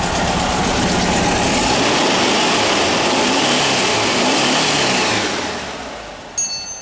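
Air-cooled VW Type 2 bus flat-four engine running cold on the choke, revved up and down, then dropping back to a lower idle about five seconds in. A single sharp metallic clink with a brief ring near the end.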